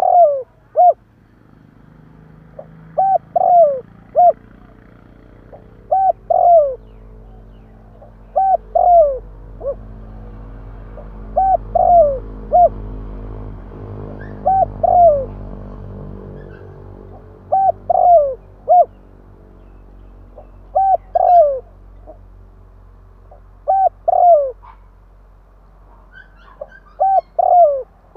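Spotted dove cooing: a phrase of a few short coos ending in a longer coo that falls in pitch, repeated about every three seconds, about ten times. This is a decoy dove's call, played to lure wild doves. A low, steady rumble runs underneath.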